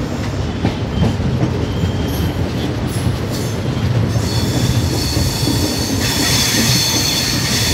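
Double-decker express train running with a steady low rumble. From about four seconds in, a high squeal of wheels and brakes joins it and grows louder from about six seconds, as the train slows into a station stop.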